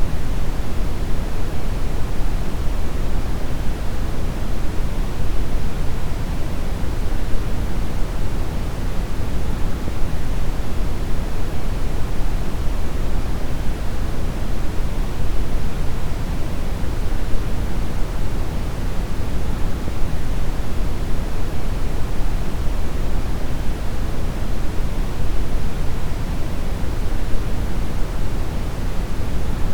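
Steady brown noise: an even, deep rushing hiss weighted toward the low end, without change or events.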